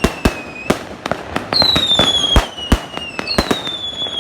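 Fireworks going off: sharp bangs at irregular intervals, over long whistles that slide down in pitch, one fading out near the start, another rising in about one and a half seconds in, and a third starting near the end.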